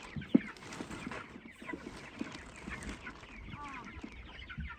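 A flock of chickens clucking and peeping in many short calls, with a single sharp knock shortly after the start.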